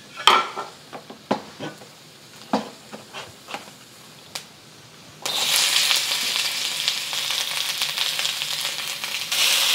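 Sliced onions frying in hot vegetable oil in a wok. A few light knocks and taps come first, then about five seconds in a loud sizzle starts abruptly and carries on, growing louder near the end.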